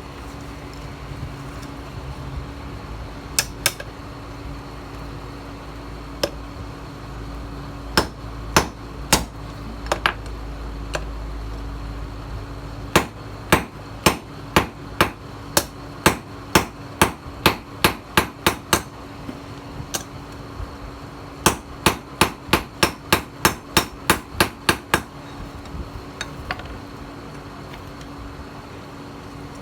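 Hammer striking steel on an anvil while forging a knife blade from a tiller blade. A few scattered blows come first, then a steady run of ringing strikes about two a second, a short pause, and a quicker run of about three a second.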